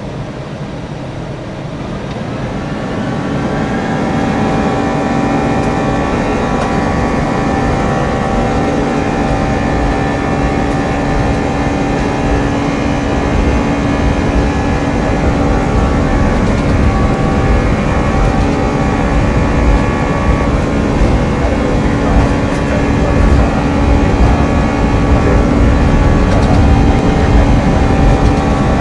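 SAS Airbus A340's four CFM56 jet engines spooling up to takeoff power, getting louder over the first few seconds, then running steadily with a constant whine over a deep rumble.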